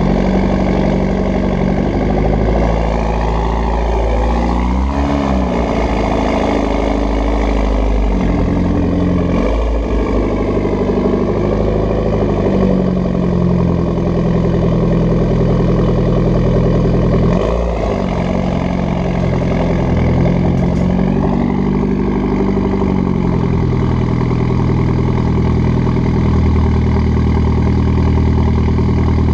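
Mitsubishi Lancer Evolution X's turbocharged four-cylinder engine idling through an AMS downpipe, cat and catback twin-tip exhaust, with a few brief revs that rise and fall back to idle.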